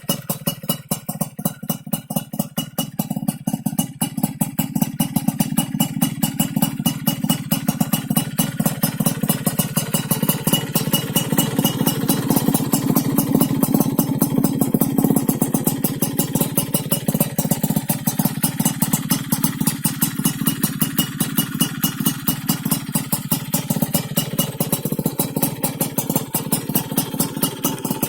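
Yamaha F1ZR's single-cylinder two-stroke engine idling through an aftermarket stainless expansion-chamber exhaust with a chromed 'rainbow' silencer, a rapid even popping beat. It gets louder towards the middle and then settles back.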